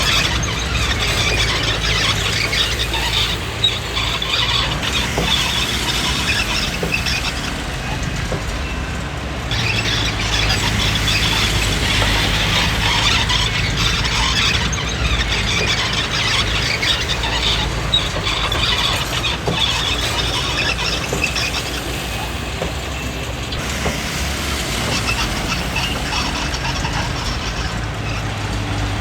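Komatsu D20P crawler bulldozer working: its diesel engine runs steadily while the steel tracks squeal and clatter as it moves.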